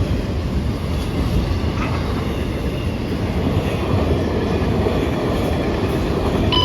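CN freight train rolling past, its wheels rumbling steadily over the rails. A short electronic beep sounds right at the end.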